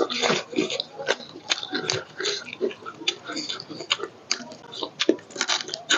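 People chewing roast chicken with their mouths, eaten off the bone by hand: a steady stream of irregular mouth clicks and smacks.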